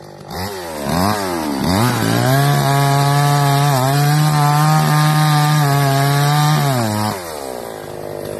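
Huyosen gas chainsaw revved in a few quick rises and falls, then held at full throttle for about five seconds while cutting into the tree trunk, and let back down to idle about seven seconds in.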